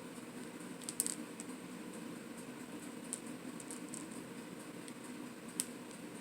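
Faint scattered clicks and light taps of food and utensils being handled, over a steady low hum.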